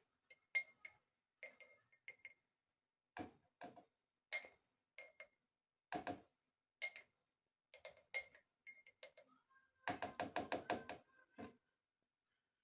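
Light kitchen knocks and taps of food preparation, one every half second to second, then a quick run of about eight taps in about a second, like a knife chopping on a board.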